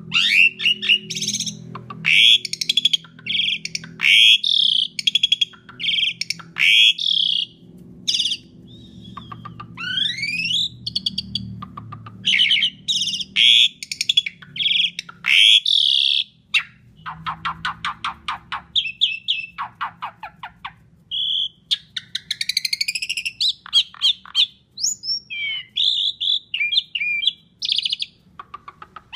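Asian pied starling (jalak suren) singing a loud, varied song of whistles and rising and falling sweeps, with a run of rapid rattling notes about midway.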